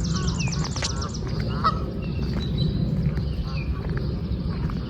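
Geese honking: several short, scattered calls over a steady low background noise.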